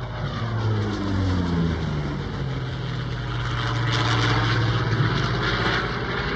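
Hawker Sea Fury, re-engined with a Douglas Skyraider's 18-cylinder Wright R-3350 radial, flying past. Its engine and propeller note drops in pitch over the first couple of seconds, then settles into a steady drone.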